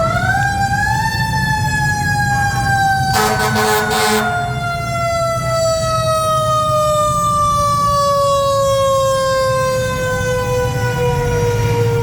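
A siren wail that rises quickly at the start, then slowly falls in pitch over about ten seconds as it winds down. A short blast of about a second comes roughly three seconds in, over a steady low rumble.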